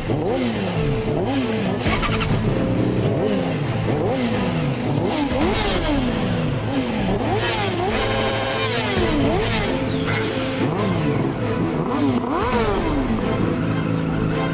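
Motorcycle engines revving and accelerating, their pitch climbing and dropping over and over, with more than one bike at once. Background music with steady held notes plays underneath.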